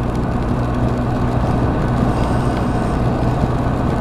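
BMW R 1250 RT's boxer-twin engine running at a steady cruise, heard under a constant rush of wind and road noise while riding in heavy rain.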